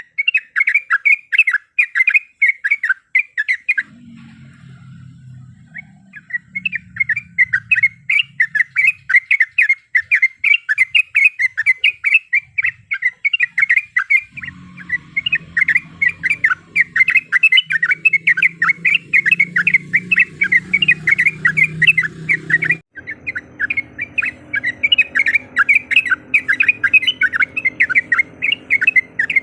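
Yellow-vented bulbul (trucuk) calling in fast, continuous runs of short chattering notes, several a second. The calling breaks off briefly a few seconds in and again for a moment near the end.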